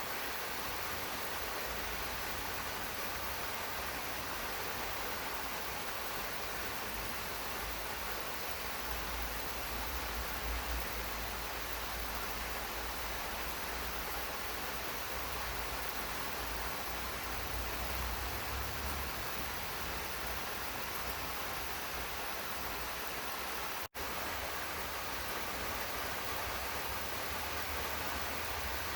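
Steady rain falling in a garden, an even hiss with a low rumble underneath. The sound cuts out for an instant about three-quarters of the way through, then carries on unchanged.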